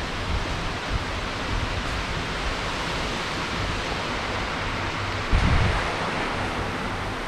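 Heavy rain falling steadily, an even hiss, with a brief low thump about five seconds in.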